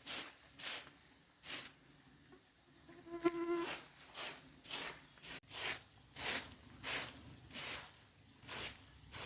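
Repeated rasping strokes of a hand tool, about two a second, with a short pause about two seconds in. A brief pitched squeak or call sounds just after the pause.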